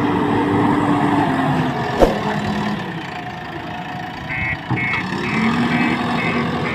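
Diesel engines of earth-moving machinery running steadily, with a sharp click about two seconds in. From about four seconds in, a regular high-pitched beeping starts, about two beeps a second.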